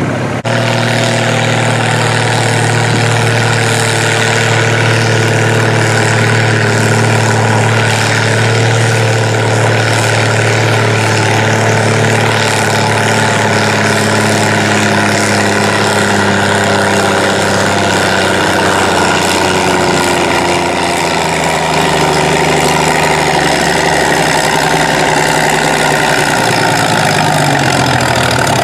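Antique tractor engine running loudly and steadily. Its note holds for most of the time, dips a little about two-thirds of the way through, and climbs again at the very end.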